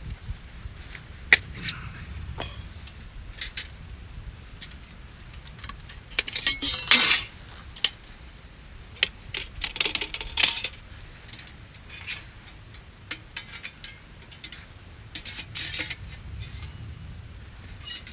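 Metal camping gear being handled: scattered clinks and rattles, with a longer scraping rustle about six seconds in and a burst of clattering around ten seconds.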